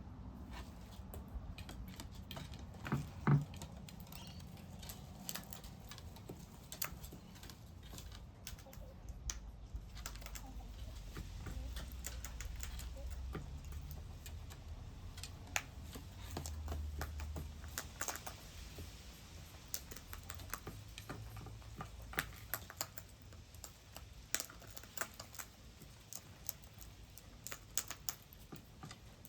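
Rapid, irregular small taps and clicks, typical of birds pecking at seed on a feeder. There is a single louder knock about three seconds in, and a low rumble through the middle stretch.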